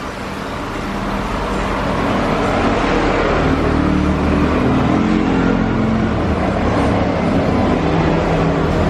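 A motor vehicle's engine running close by, growing louder over the first couple of seconds and then holding steady, its hum shifting slightly in pitch.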